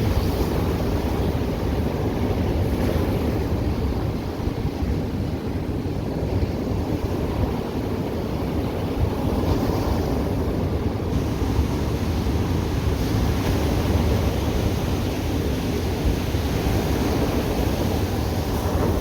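Ocean surf washing onto the shore in a continuous, steady rush, with wind rumbling on the microphone.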